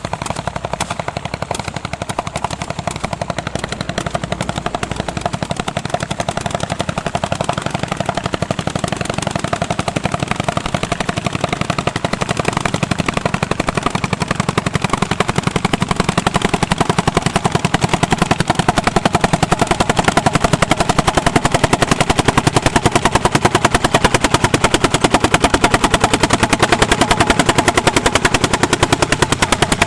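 Hot-bulb tractor's single-cylinder two-stroke engine running with a rapid, even exhaust beat. It grows louder through the middle and eases slightly near the end.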